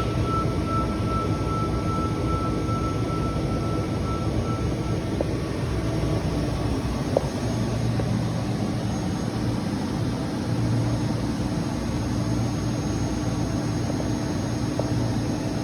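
Steady, loud background noise, strongest in the low range, with a steady hum and a faint high tone that fades out about five seconds in. It is the noise that remains in the recording even with the input gain lowered.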